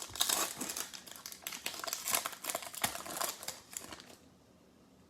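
Crinkling and rustling of a foil trading-card pack wrapper and cards being handled, with small clicks and scrapes, stopping about four seconds in.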